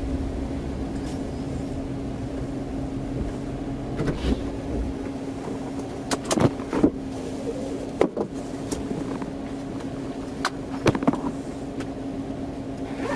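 A steady hum with a low rumble that drops away about five seconds in, and a handful of sharp clicks and knocks scattered through the second half.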